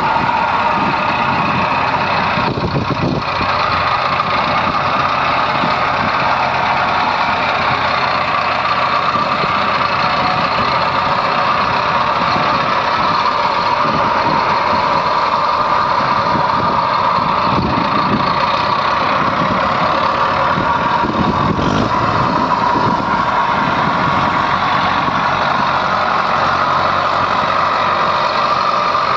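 Heavy diesel machinery running loudly and steadily, with no breaks: the engines of a backhoe loader and tractor at work loading soil.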